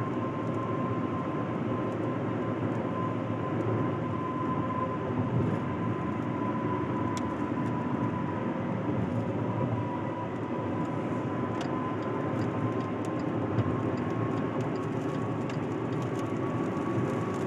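Steady rumble of road and wind noise heard from inside a moving car, with a faint steady whine over it.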